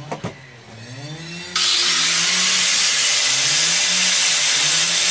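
Homemade grinder driven by a washing-machine motor: the motor hums with a wavering pitch after two clicks. About a second and a half in, a loud, harsh grinding noise starts suddenly and holds steady as the blade mills the rice.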